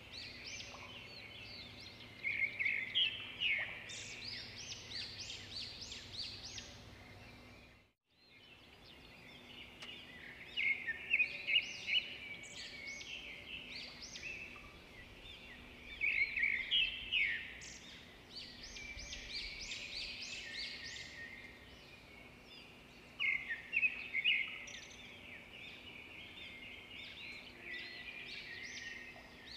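Small birds chirping and twittering in repeated bursts of quick song, over a faint steady hum. The sound cuts out briefly about eight seconds in.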